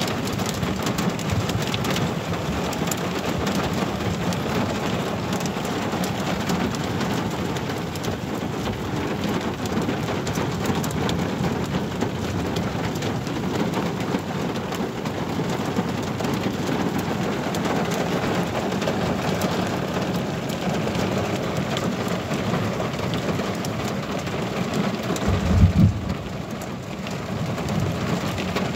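Heavy rain drumming steadily on a campervan's roof and windscreen, heard from inside the van. Near the end there is one brief low thump, the loudest moment.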